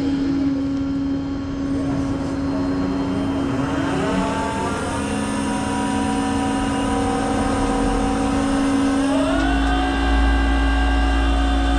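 Tow truck's engine running up under load while winching a vehicle aboard, over a steady hum. The engine pitch rises about four seconds in and steps up again near the end, with a deeper rumble.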